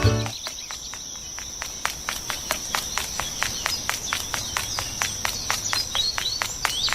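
Insect chorus: a steady high trill with regular clicks about four a second and a few short high chirps.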